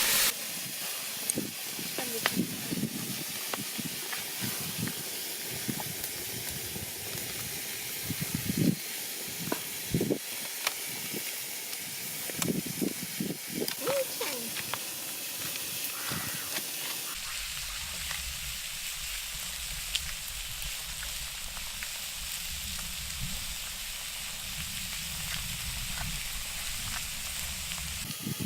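Pig kidneys sizzling on a hot steel plate: a steady frying hiss with scattered small pops and ticks.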